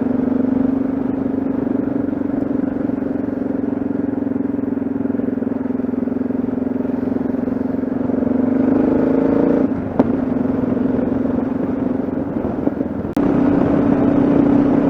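Yamaha XT 660Z Ténéré's single-cylinder engine running steadily at road speed, with a sharp click about ten seconds in and a sudden dip, then a louder engine note, near the end.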